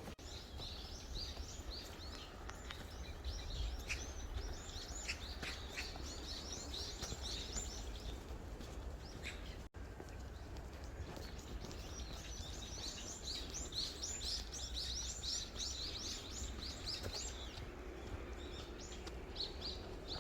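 Small songbirds chirping and twittering in quick high notes, in two spells with a short break between, over a steady low outdoor rumble.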